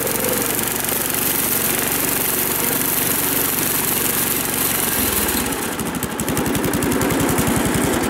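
Small garden-tractor engine running steadily, changing about five seconds in to a regular, rapid pulsing chug.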